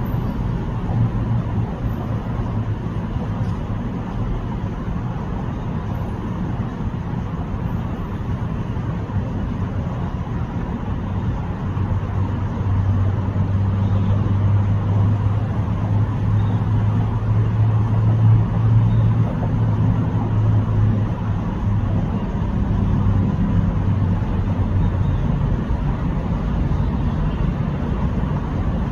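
Steady low rumble of motor traffic. A low engine hum swells for several seconds through the middle and then fades.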